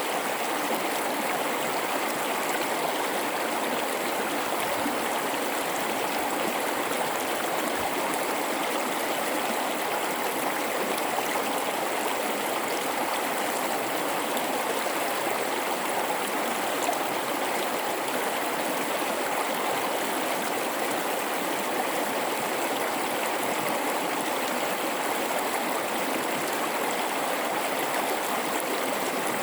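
River flowing through a gorge: a steady, even rush of water.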